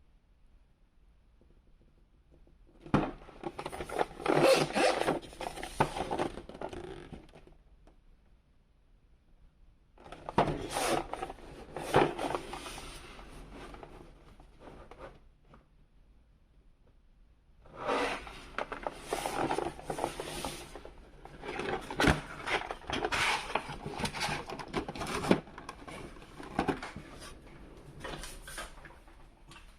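Toy packaging being handled and opened: rustling and scraping with sharp clicks and taps, in three bursts separated by short quiet gaps.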